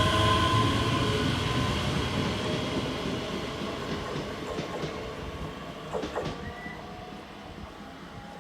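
A train running past and fading away, its steady whining tones and rumble dying down over several seconds. A few sharp clicks come about six seconds in.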